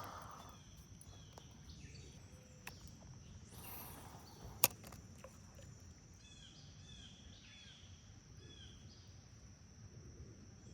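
Quiet outdoor ambience: faint small bird chirps repeating in the middle stretch over a steady high insect drone, with one sharp click a little under five seconds in.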